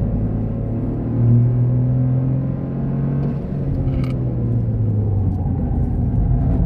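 Toyota GR Corolla's turbocharged 1.6-litre three-cylinder engine pulling hard under acceleration, its pitch rising, then falling as the car brakes for a corner, heard from inside the cabin. A brief sharp click comes about four seconds in.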